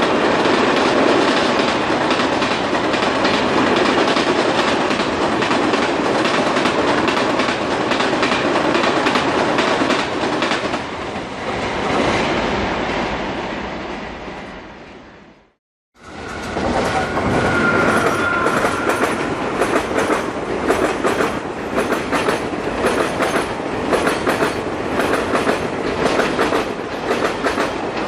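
Passenger coaches of an Indian Railways express train rolling past, their wheels clattering over the rail joints; the sound fades out about fifteen seconds in. A second express train's coaches then pass close by with a rhythmic clickety-clack, and a faint high whine is heard briefly soon after they start.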